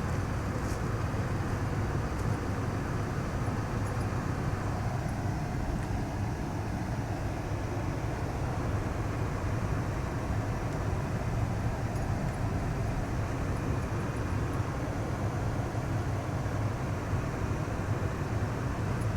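Steady engine and road noise heard inside a vehicle's cabin, a low hum with a hiss above it, as the vehicle drives slowly in four-wheel drive through snow.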